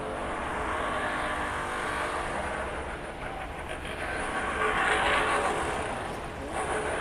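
Steady mechanical engine noise, super noisy, with a faint hum of steady tones through it; it swells about five seconds in and then eases off.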